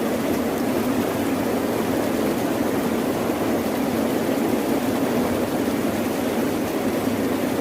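Steady rain, an even rush with no breaks or swells and most of its weight low.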